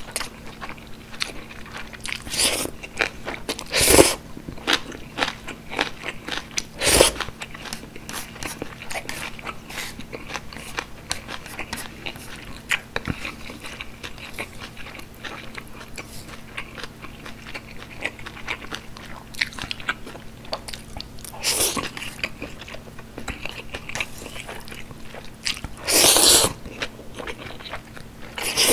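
Close-miked mouth sounds of eating jjajang ramen: a steady run of wet chewing clicks, broken by a handful of louder bites and slurps, the last ones near the end as the noodles are slurped in.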